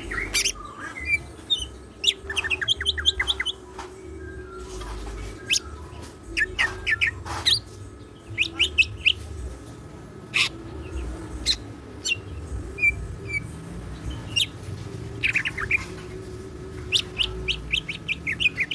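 Green leafbird (cucak ijo) singing in rapid bursts of sharp chirps, quick rising trills and short whistled notes, with a faint steady hum underneath.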